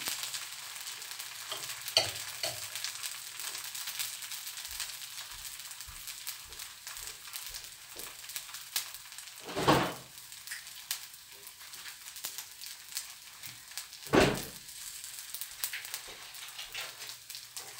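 Dosa batter sizzling and crackling steadily as it cooks on a hot pan, with two brief louder noises about ten and fourteen seconds in.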